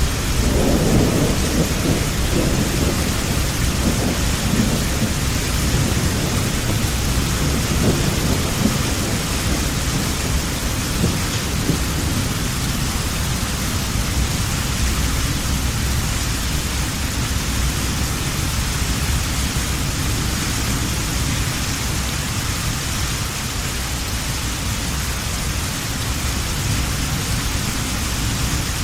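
Heavy rain falling steadily, with a low rumble of thunder in the first several seconds that slowly fades away under the rain's hiss.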